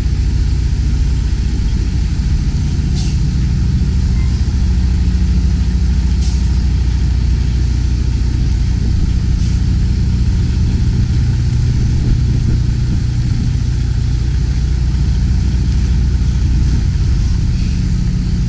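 Semi tractor's diesel engine running steadily at low revs while a tractor-trailer is backed slowly. A faint tick comes about every three seconds.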